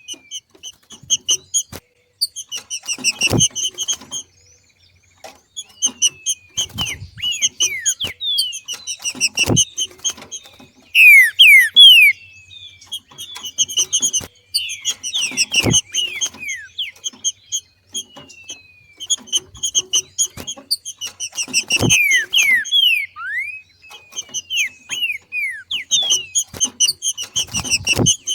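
Green-winged saltator (trinca-ferro) calling in repeated bursts every few seconds: rapid chattering notes mixed with short down-slurred whistles, the loudest burst about eleven seconds in. A low thump sounds in several of the bursts.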